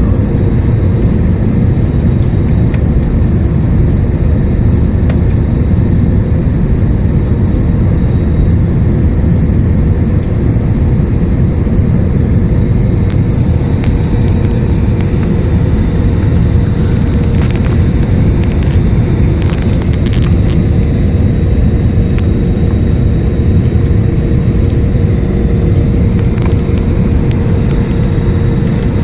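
Steady cabin noise inside an Airbus A321 airliner on approach: an even, loud rumble of engines and airflow with a faint steady hum and a few light ticks.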